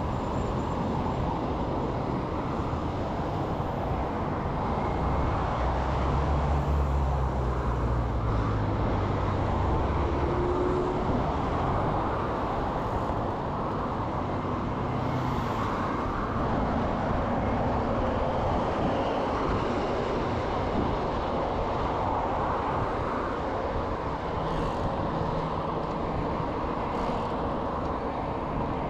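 Steady road and traffic noise heard while riding along a road, with a heavier low rumble about six to ten seconds in, as of a vehicle passing.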